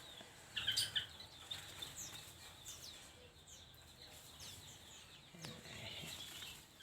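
Small aviary birds, lovebirds among them, giving short sharp chirps and squawks at intervals, with a burst about a second in and more calls near the end.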